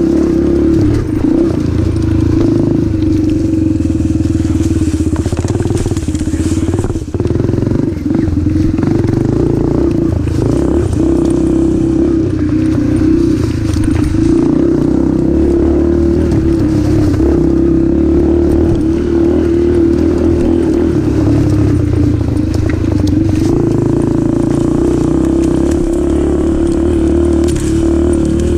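Yamaha TT-R125 dirt bike's small single-cylinder four-stroke engine running steadily under way, with a few brief dips in the note a few seconds in.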